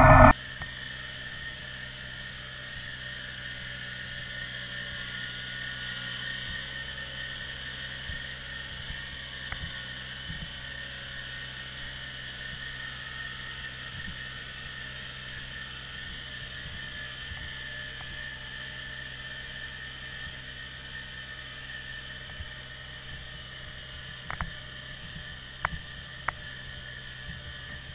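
Kubota BX1800 compact tractor's three-cylinder diesel engine running at a steady speed. A few short knocks come near the end.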